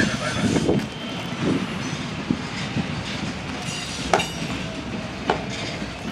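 A train rolling past with a steady rumble of wheels on rail, with a couple of sharp clacks about a second apart near the end as wheels cross rail joints.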